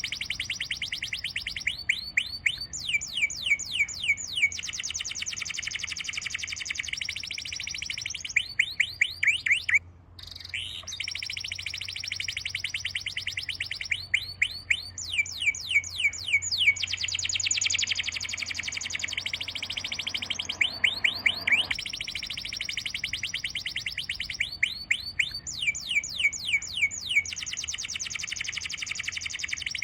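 A songbird singing fast trills of high, falling whistled notes, phrase after phrase, with a brief break about a third of the way in.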